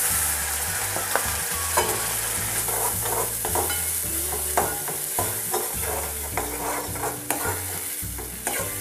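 Ground coconut-onion masala paste sizzling in hot oil in an aluminium kadhai, with a steel spoon scraping and clinking in short strokes as it is stirred in.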